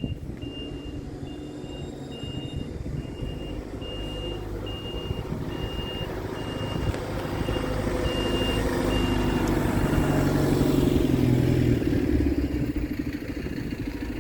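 Scania R tractor unit's diesel engine running as the truck reverses, with its reversing alarm giving a steady series of high beeps. The beeps stop about ten seconds in, while the engine grows louder.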